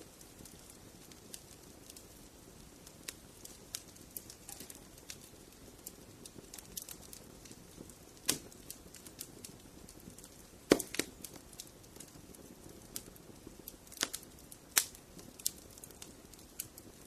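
Wood fire in a fireplace crackling, with a soft steady hiss under irregular sharp pops and snaps; the loudest pops come about eight, eleven and fourteen to fifteen seconds in.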